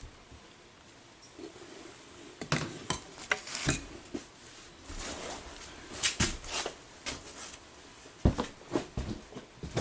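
Scattered clicks, knocks and light clatter of PVC pipe and fittings being handled, in three loose clusters, with the sharpest knock a little past the middle.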